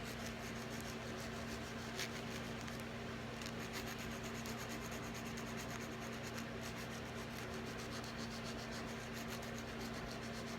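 Hand nail file rasping in quick short strokes against a cockatoo's toenails, over the steady hum of running fans.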